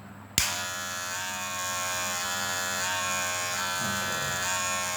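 Wahl cordless hair clipper switched on with a click about half a second in, then running with a steady buzz. It runs fairly quietly, now that its blade has been reset and the metal-on-metal housing screws tightened to cure its rattling noise.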